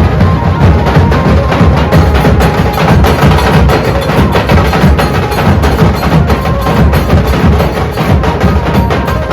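Dhol ensemble drumming loudly: dense, fast stick strokes over heavy low dhol booms in a driving rhythm.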